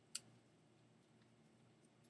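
Near silence: room tone, with a single sharp click just after the start.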